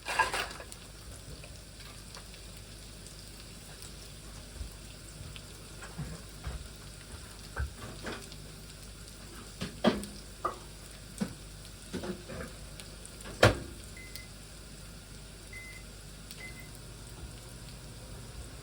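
Cubed leftover potatoes and onion sizzling steadily in fat in a frying pan, with scattered clacks of a utensil stirring against the pan, the loudest about 13 seconds in. Three faint short beeps sound near the end.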